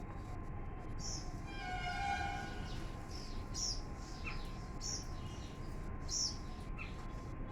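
Small birds chirping, short high chirps every second or so over a low background rumble. A brief held tone sounds around two seconds in, and a faint steady whine runs underneath.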